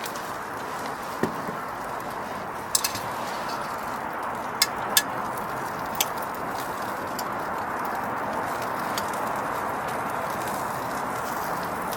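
Wood fire crackling: a steady hiss with a handful of sharp pops in the first half.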